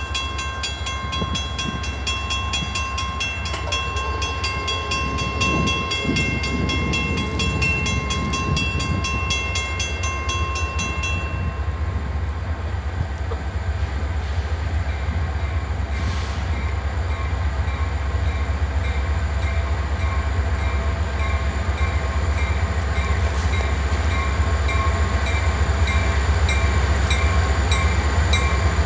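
Freight train led by EMD diesel locomotives passing, with a steady low rumble. A bell rings in fast, even strokes for the first eleven seconds or so, then a slower repeating ring carries on.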